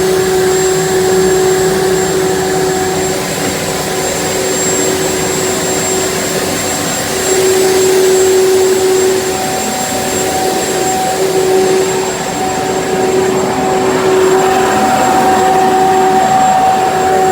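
Boeing T50 small gas turbine engine running steadily, with a jet-like rush and a high whine. The level rises slightly about seven seconds in and again near the end.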